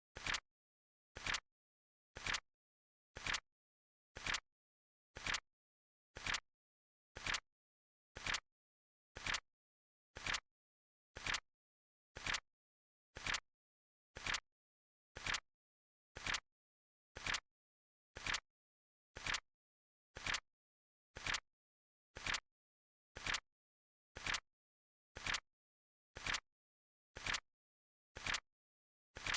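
Flip clock timer sound effect ticking once a second, each tick short and sharp, evenly spaced with silence in between.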